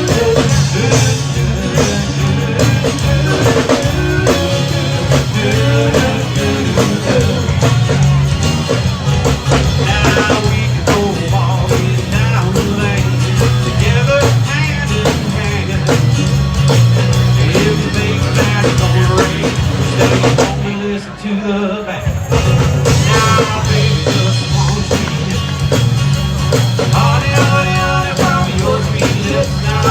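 Rock and roll band music with drums, bass and guitar, without words. About 21 seconds in, the band cuts back briefly for about a second before coming back in full.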